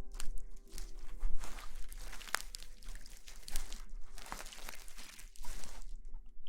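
Close-miked ASMR rustling: irregular, crackly scrunching and crinkling with many small clicks, coming in waves.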